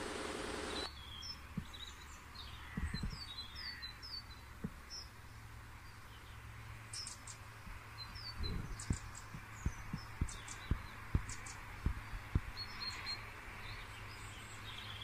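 Small birds chirping over outdoor background noise, with scattered low thumps and a low hum. A broad hiss cuts off about a second in.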